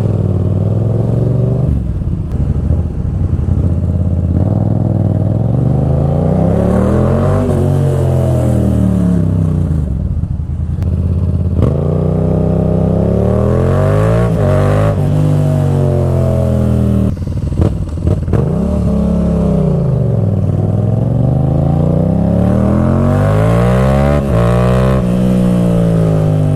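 Motorcycle engine with a deep exhaust note, its pitch rising and falling several times as the bike is ridden, accelerating and easing off.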